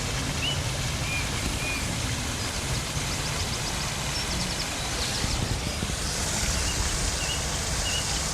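Steady rushing outdoor noise with small birds chirping briefly now and then.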